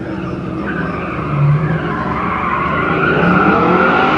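A 1972 Chevrolet C10 pickup's LS1 V8 running hard while its tires squeal through a turn on the autocross course, a long wavering squeal that climbs slightly toward the end.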